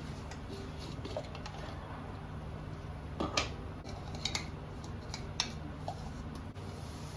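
A few light clinks and clatters of kitchen utensils against pots or dishes, over a steady low hum.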